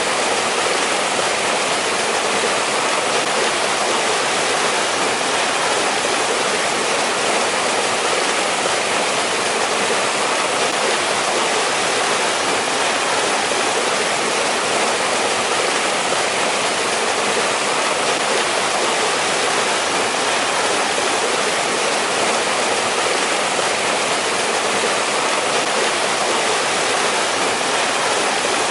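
Mountain valley stream rushing steadily over rocks, a continuous even hiss of flowing water with no breaks.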